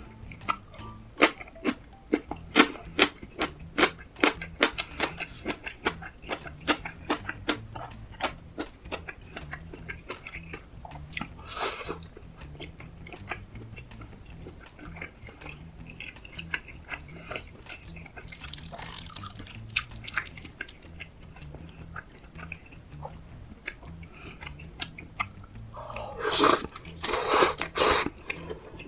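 A person eating close to the microphone: a quick run of wet chewing smacks and clicks, which thins out after about ten seconds. There is a louder noisy bite or scrape about twelve seconds in and a cluster of louder eating noises near the end.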